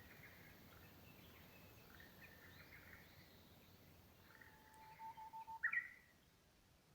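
Faint wild bird calls: scattered short chirps, a brief held whistle, and a louder quick call near the end.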